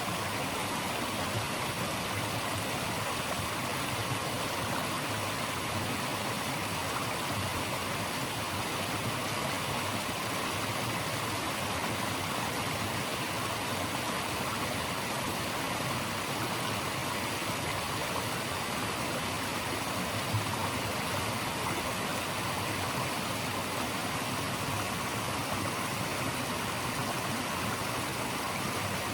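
Running water of a stream making a steady, even rushing noise that does not change.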